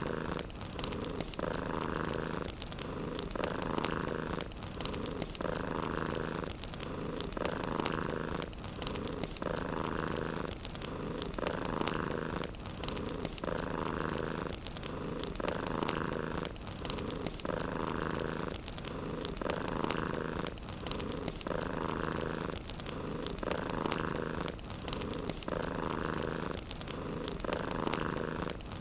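Domestic cat purring continuously in a steady rhythm, the purr shifting in tone with each breath in and out about every two seconds. Faint fire crackles run underneath.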